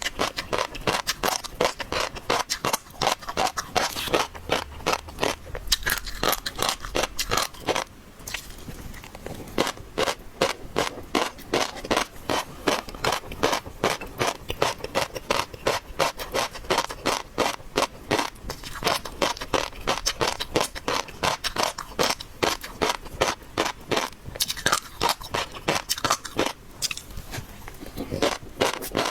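Crunching and chewing of seafood: a dense run of crisp clicks and crackles, several a second, easing briefly about eight seconds in.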